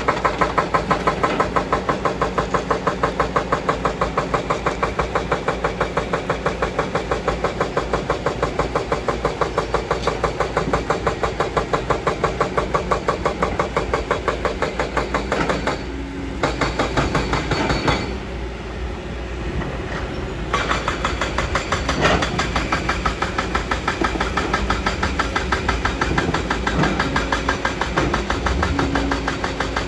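Kobelco excavator's diesel engine running under load, with an even pulsing beat of about three a second. Between about 16 and 20 seconds in it drops briefly quieter, then picks up again.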